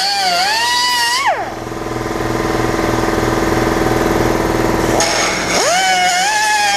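A grinder whining at high speed on metal, then bogging down hard about a second in to a much lower, steady pitch as it bites into the cut, and spinning back up to a high whine near the end.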